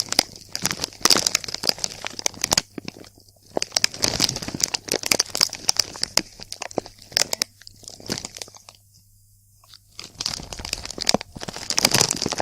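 A crisp packet crinkled and scrunched by hand close to the microphone, in crackling bursts with brief pauses about three seconds and nine seconds in.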